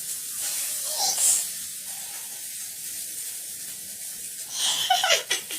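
Food frying in a hot pan, a steady sizzling hiss, with brief bursts of voice about a second in and again near the end.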